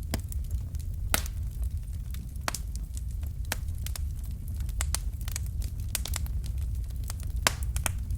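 Fire crackling in a fireplace: irregular sharp pops and snaps over a steady low rumble of the flames, with the loudest pops about a second in and near the end.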